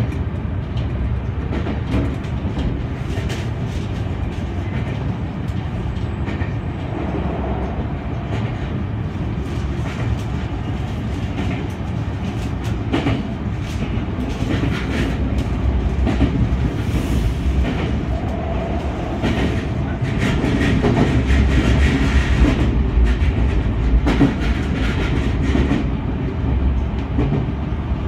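Senboku Rapid Railway 7020-series electric train running, heard from the front of the car: a steady rumble with wheels clicking over rail joints and points, getting louder about two-thirds of the way through.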